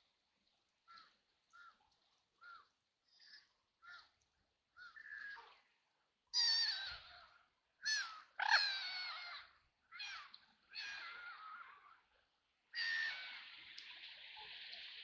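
Ducks quacking: a run of soft, short quacks about every second at first, then louder, harsh quacks from about six seconds in. Near the end a longer, noisier rushing sound sets in under the calls.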